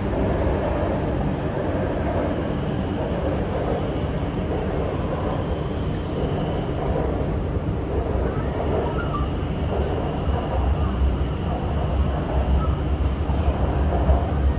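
Chengdu Metro Line 7 six-car A-type train running between stations, heard from inside the car: a steady rumble and running noise with a faint high whine, the low rumble growing stronger in the second half.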